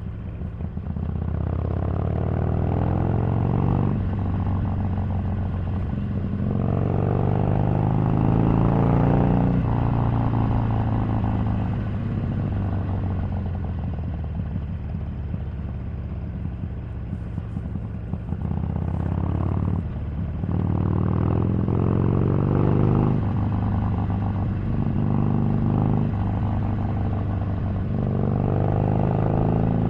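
Harley-Davidson 883 Sportster's air-cooled V-twin running on the road, pulling up through the gears several times with the pitch rising and dropping at each shift, and easing off to a steadier, lower run in between.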